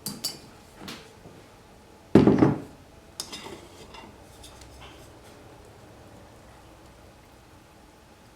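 Kitchen items being handled on a counter: a few light clinks and one heavy, clattering knock about two seconds in, like a glass jar or dish being set down.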